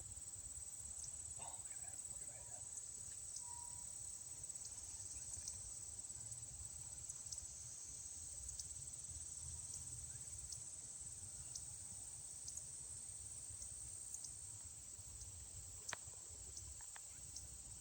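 Steady high-pitched chirring of an insect chorus, with a low rumble underneath and a few faint clicks.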